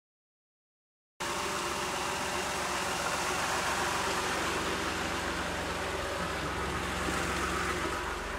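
Nissan VG30E 3.0-litre V6 idling steadily, starting about a second in.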